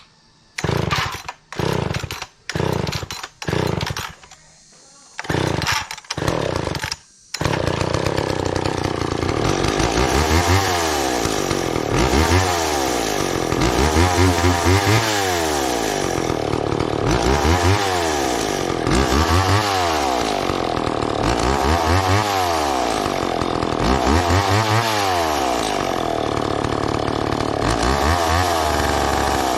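Gas chainsaw, a McCulloch Mac 10-10 two-stroke, running: several short bursts in the first seven seconds, then it runs continuously, its engine speed rising and falling about every two and a half seconds, as when cutting wood.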